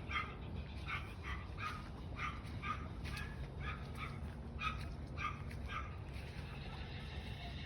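A dog barking repeatedly in short, high yaps, about two a second, stopping about six seconds in.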